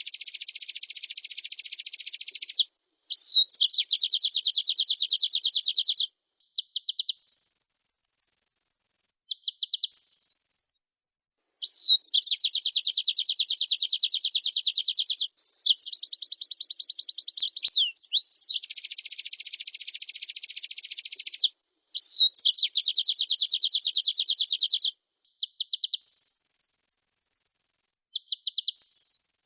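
White-eye (pleci) singing: fast chattering trills in runs of two to four seconds with short breaks, mixed with three briefer, much higher buzzy trills.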